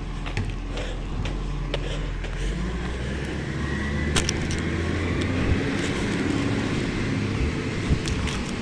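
Garbage truck engine running, then revving up and pulling away about two and a half seconds in, with a faint whine and a few sharp clicks.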